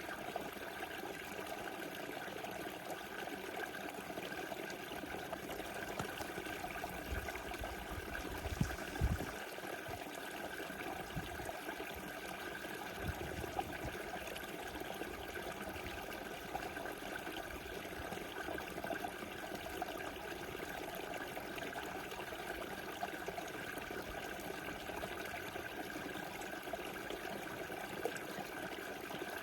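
Small river flowing steadily, a continuous rushing and trickling of water. A few brief low rumbles come about a third of the way in.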